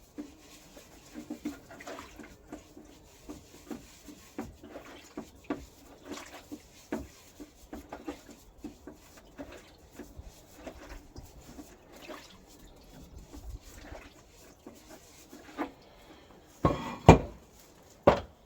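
Irregular light clicks and knocks of hand work on a rusty steel fuel tank, with a few louder knocks near the end.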